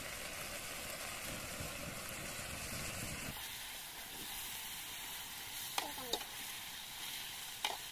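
Country chicken pieces sizzling in hot oil in a metal kadai over a wood fire, stirred with metal tongs, with a few short scraping clicks of the tongs against the pan near the end.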